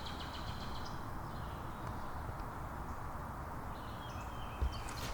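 Wetland outdoor ambience: a high, rapidly pulsing trill from a small animal, fading about a second in and returning faintly near the end, over a steady low background rumble. A soft thump comes near the end.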